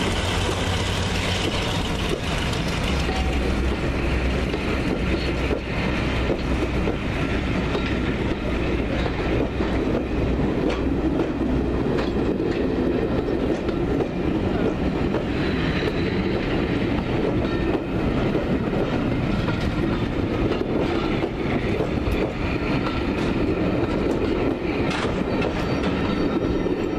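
Passenger coaches of a diesel-hauled train rolling past at low speed, their wheels clicking over the rail joints in an uneven rhythm. In the first half the low drone of the Class 42 Warship diesel-hydraulic locomotive that hauls them carries on underneath.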